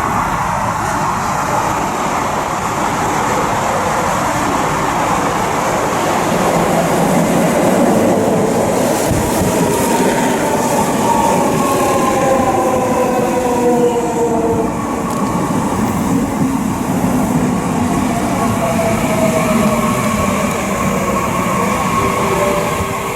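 Electric commuter train running on rails, with a steady rumble of wheels on track. Through the second half a whine from the traction motors falls slowly in pitch as the train brakes.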